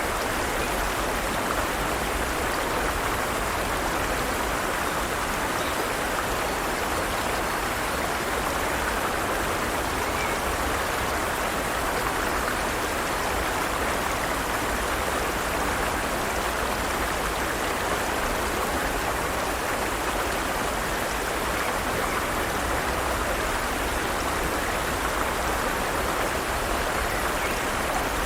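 Forest stream running water, a steady even rush with no pauses or distinct splashes.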